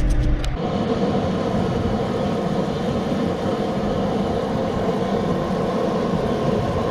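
John Deere 3046R tractor's three-cylinder diesel engine running steadily, coming in about half a second in.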